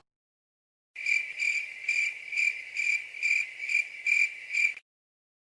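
Cricket chirping sound effect, the stock 'crickets' gag for an awkward silence: a single cricket's high chirps, about two a second, nine in all, starting about a second in and stopping cleanly near the end.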